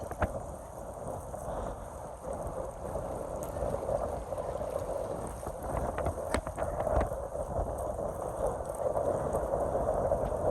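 Strong wind buffeting the microphone, with water sloshing and a few sharp knocks about six to seven seconds in.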